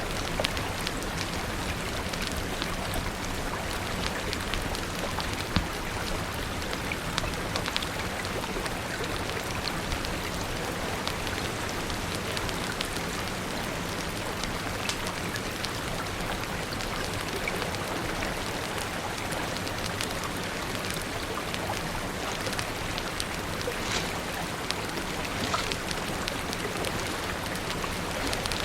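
Steady rain falling, with many small sharp drop ticks and pops scattered through it.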